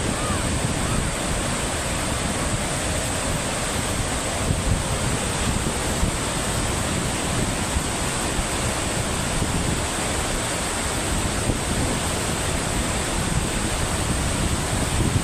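Steady rush of turbulent water, with gusty low rumbling of wind on the microphone.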